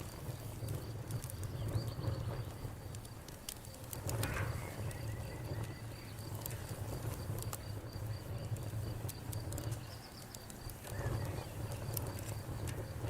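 Campfire crackling, with scattered sharp pops over a low steady rumble. A cricket chirps steadily in the background, about three chirps a second.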